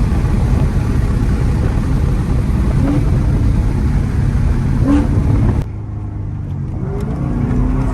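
Camaro ZL1 1LE's supercharged V8 running hard at speed with a heavy low rumble. About five and a half seconds in the sound drops off sharply, as when the throttle is lifted, then the engine note rises again near the end.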